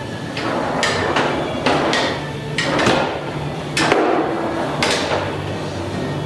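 A series of sharp knocks or hits at an uneven pace, about eight in six seconds, each with a short ringing tail, over a steady low hum.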